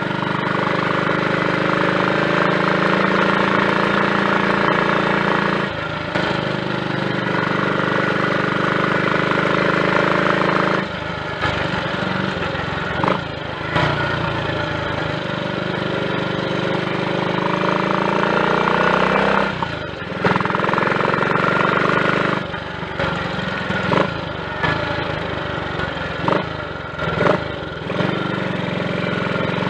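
Triumph Tiger Cub's single-cylinder four-stroke engine running while ridden, still on part choke. Its pitch climbs steadily and then drops sharply several times, as on throttle-offs or gear changes.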